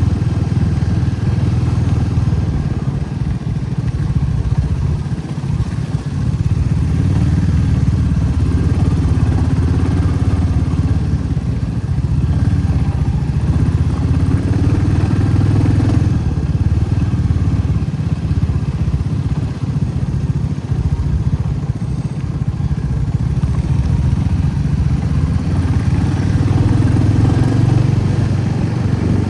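Motorcycle riding along at road speed: steady low engine and road noise whose pitch wavers slightly up and down.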